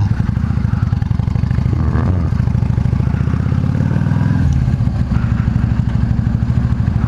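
Yamaha V Star 650's air-cooled V-twin engine running under way. Its pitch climbs for a couple of seconds, then drops and settles about four and a half seconds in.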